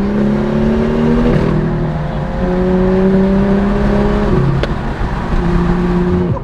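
Car engine accelerating through the gears: its pitch climbs slowly, then drops at each upshift, about three or four times.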